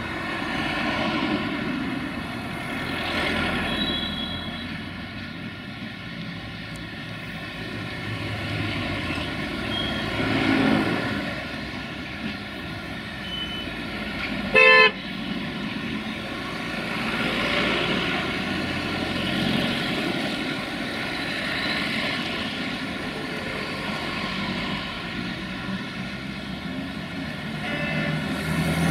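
Loaded log wagons of a freight train rolling through curved station tracks, a continuous rumble of wheels on rail with steady ringing tones. About halfway through, a single short, loud locomotive horn toot.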